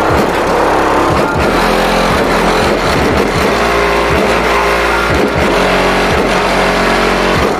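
Car audio system playing bass-heavy music through two Bravox Endurance E2K subwoofers in ported boxes, driven by a Soundigital 3000 W amplifier. The bass line is a run of quick sliding notes that swoop up and down again and again.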